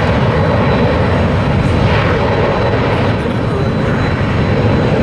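Jet aircraft engines at full takeoff thrust, a loud steady rush of engine noise that holds even throughout.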